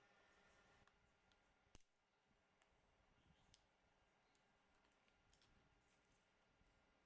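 Near silence broken by a few faint, sharp clicks, the loudest one about two seconds in.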